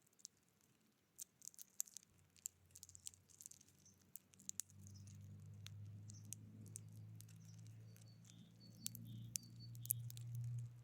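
Faint, quick light taps and clicks, such as small birds make pecking and hopping at a feeder, with three short high notes shortly before the end. About halfway through, a low steady hum comes in and grows a little louder toward the end.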